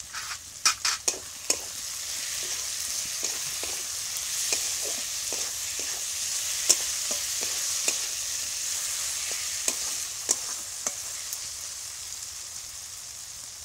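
Onions and tomatoes frying in oil in a black kadai, sizzling steadily while a spatula stirs them, scraping and clicking against the pan. A quick run of sharp clicks comes about a second in, then single clicks now and then.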